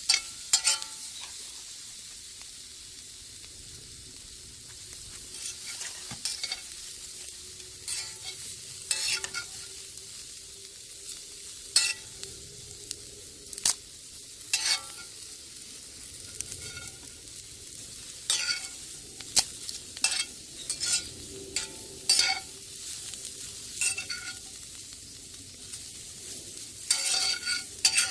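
Omelet batter frying in a cast-iron skillet with a steady sizzle. A utensil scrapes and taps against the pan at irregular moments.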